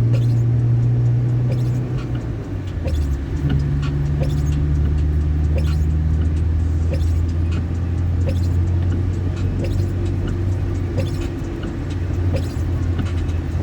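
Car engine and road noise heard from inside the cabin while driving. The engine's low hum drops in pitch about two to three seconds in, then holds steady. A light tick repeats a little faster than once a second throughout.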